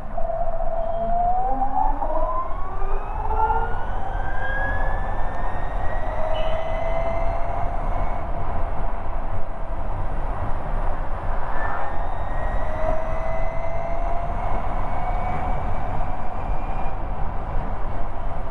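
Ather 450X electric scooter's motor whining, its pitch rising as the scooter picks up speed and then levelling off, with a second rise about eleven seconds in. A steady rumble of wind and road noise runs underneath.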